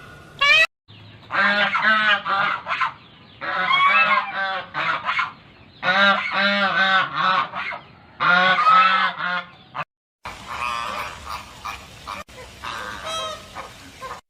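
Waterfowl calling: rapid runs of short, loud, repeated calls in four bursts. About ten seconds in, a cut brings fainter calls of the same kind.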